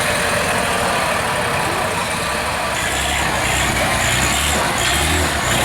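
Off-road trial truck's engine running steadily, a low engine tone standing out clearly from about halfway through.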